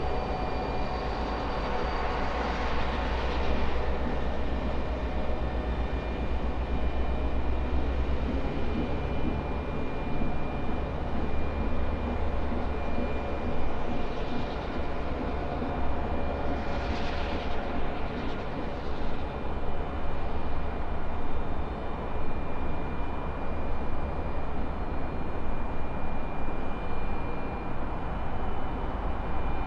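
Train station ambience: a continuous low rumble of trains, heaviest in the first several seconds. A few short hissing swells come through a few seconds in and again twice past the middle.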